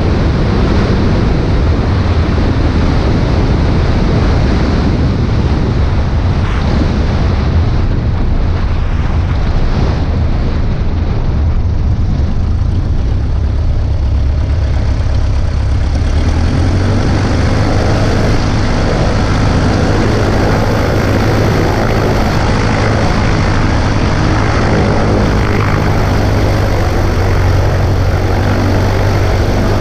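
Single-engine Cessna 140A's Continental C-90 engine and propeller running steadily, with heavy wind rush over the microphone. About halfway through, the engine's hum comes through more distinctly above the rushing noise.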